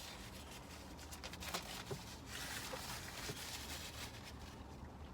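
Faint chewing of a mouthful of crispy fried chicken sandwich, with a few small mouth clicks and a brief soft rustle a little over two seconds in.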